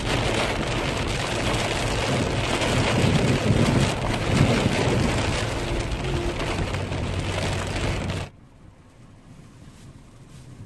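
Rainstorm: a loud steady rush of rain with a low rumble beneath it, dropping sharply about eight seconds in to a much quieter, steady sound of falling rain.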